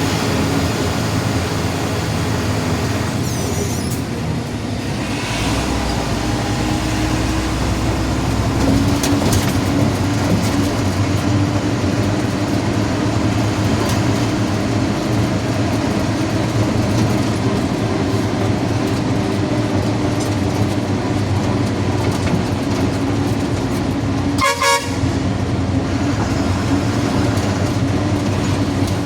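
Vehicle driving on a highway: steady engine drone and road noise, with a short horn toot near the end.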